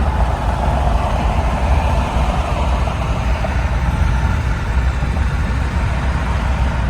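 Pontiac car driving on the road, its engine and road noise making a steady low rumble with no change in pace.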